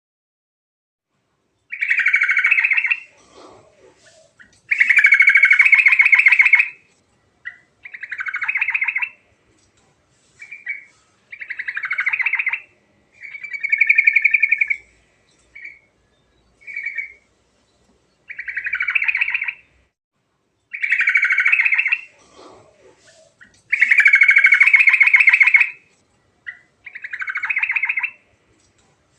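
Yellow-vented bulbul (trucuk) singing in full voice: a string of bubbly, rapidly trilled phrases, each a second or two long, separated by short pauses. The longest and loudest phrases come a few seconds in and again near the end.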